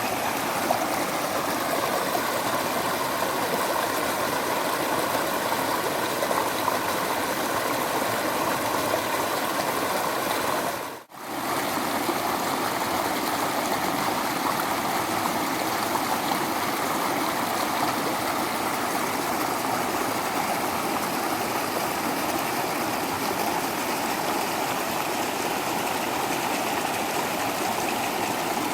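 Waterfall: a steady, even rush of falling water. The sound dips out briefly about eleven seconds in.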